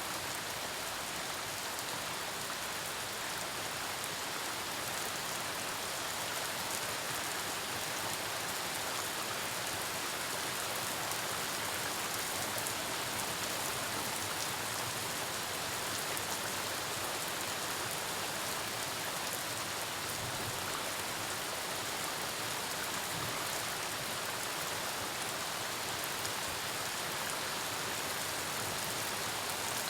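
Storm rain falling steadily: an even, unbroken hiss with scattered individual drop impacts.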